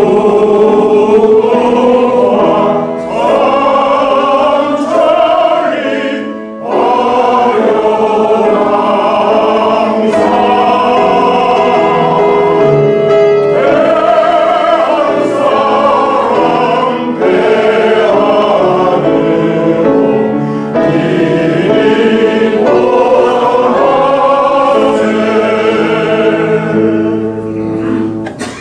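A hall full of people singing a national anthem together to a piano accompaniment, the singing pausing briefly about six seconds in and dropping away at the very end.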